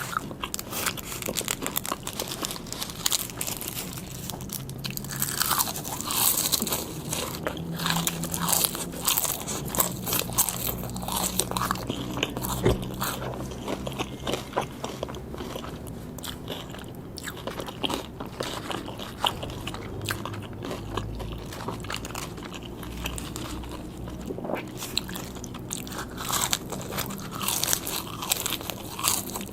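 A person biting and chewing crunchy food, a dense run of crisp crunches with no pause.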